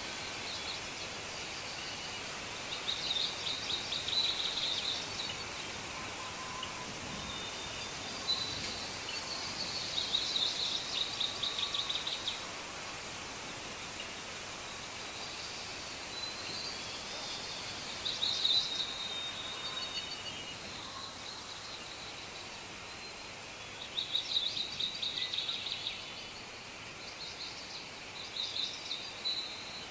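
Songbirds singing in bursts of rapid, high trills, about five times, over a steady outdoor background hiss.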